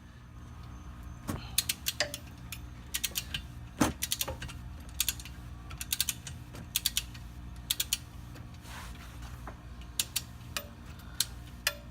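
Ratchet wrench clicking in short quick runs, working a 14 mm bit on the rear differential drain plug to loosen it, with a louder knock or two of the tool. A steady low hum runs underneath.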